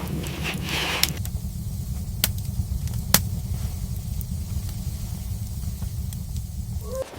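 A steady low rumble with a few sharp clicks or crackles, about a second apart, in the first half.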